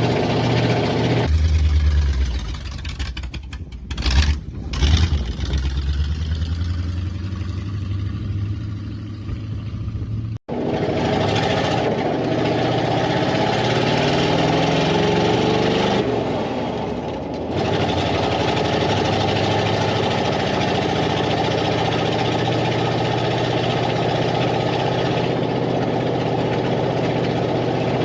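1978 Chevy K10 pickup's engine running as the truck is driven, with a couple of brief louder surges about four to five seconds in. The sound breaks off abruptly about ten seconds in and resumes with a different tone.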